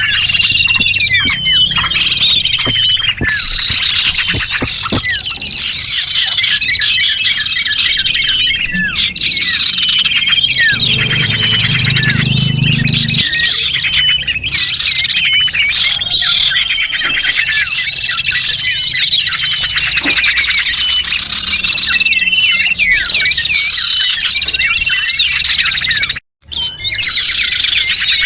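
Lure recording of small songbirds: a dense, unbroken run of rapid high chirps and trills from several overlapping birds. The sound cuts out completely for a split second about 26 seconds in.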